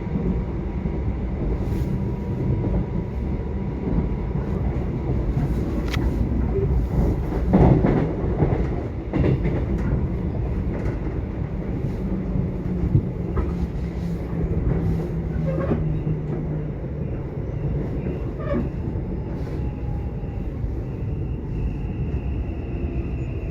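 Subway train running: a steady low rumble of wheels and car body, with scattered sharp clacks over the rails. Near the end a whine from the drive motors slides in pitch.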